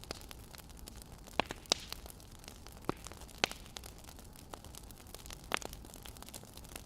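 Wood fire crackling: a steady soft hiss broken by about half a dozen irregular sharp pops and snaps.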